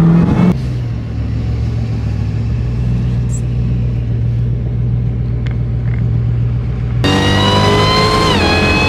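Modified 1,000-hp Dodge Challenger Hellcat's supercharged 6.2-litre HEMI V8 heard from inside the cabin: a low steady drone while cruising, then about seven seconds in a louder engine note whose revs drop briefly before holding steady.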